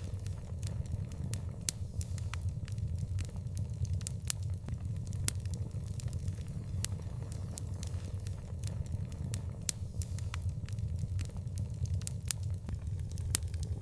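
Wood fire burning with a steady low rumble and frequent sharp, irregular crackles and pops, a few of them louder.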